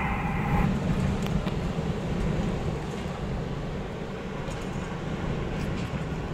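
Strong gusty wind buffeting a car, a steady low rumble. A brighter hiss cuts off abruptly about half a second in.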